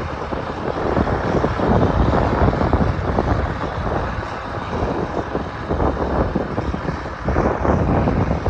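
Tractor engine running steadily while plowing, with wind buffeting the microphone.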